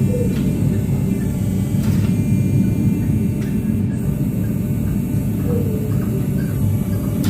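Forge running with a steady low roar during Damascus forge welding.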